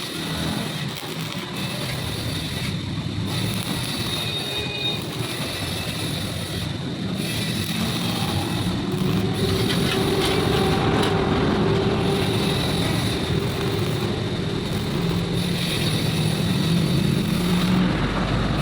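A machine motor running steadily, growing a little louder over the first half.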